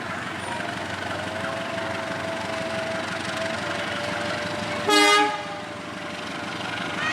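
Steady running noise of a train, then one short, sharp toot of the train's horn about five seconds in.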